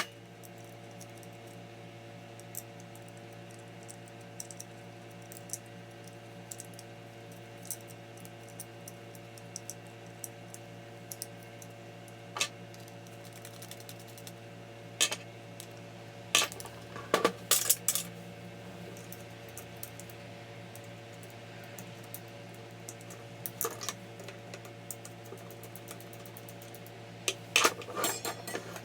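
Scattered light metallic clicks and clinks of small parts and tools being handled, in a few quick clusters, over a steady low hum.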